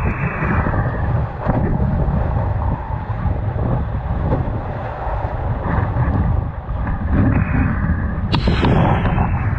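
Wind buffeting the microphone aboard a sailboat: a heavy, uneven low rumble with a sudden loud blast near the end.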